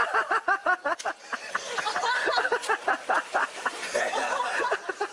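A person laughing hard, in a long run of quick, high-pitched bursts of several a second.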